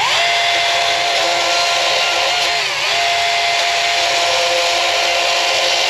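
Power saw running at speed, cutting through a 6x6 wooden post milled from a utility pole. Its pitch sags briefly twice as it works through the wood.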